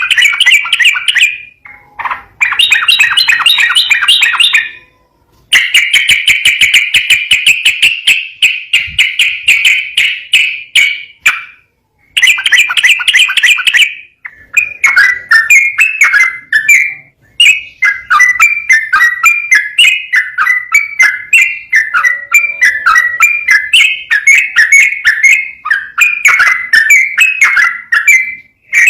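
Yellow-vented bulbul (trucukan) singing a fast, chattering song, the notes rattled off in quick runs of a few seconds separated by brief pauses. After about halfway the phrases become more varied and rise and fall in pitch.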